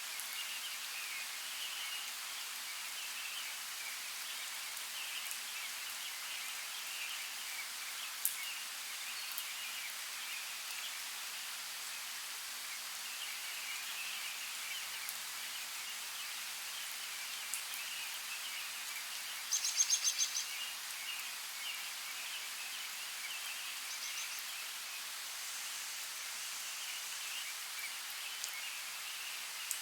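Steady rain hiss with a few sharp drip ticks. A short, rapid high-pitched trill comes about two-thirds of the way through.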